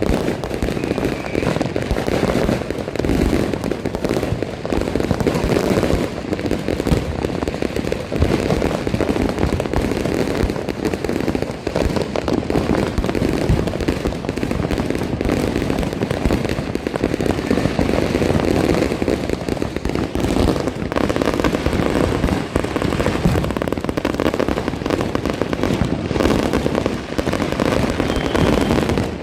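Dense, continuous crackle and popping of many fireworks and firecrackers going off at once, sharp reports overlapping without a break, with aerial shells bursting among them.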